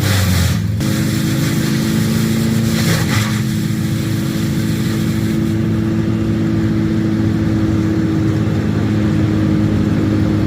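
Engine of a piece of work machinery running steadily under load, its pitch stepping up about a second in, with short hissing surges near the start and around three seconds.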